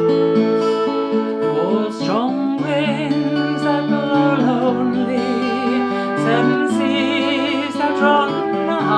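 Folk song played on acoustic guitar, with a flute and a woman's singing voice carrying the melody.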